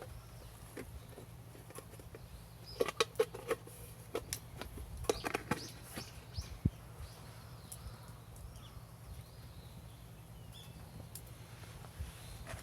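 Wood fire crackling, with scattered sharp pops that bunch together about three and five seconds in, over a steady low hum.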